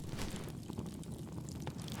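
Crackling bonfire: a steady low rumble of burning with scattered sharp crackles and pops.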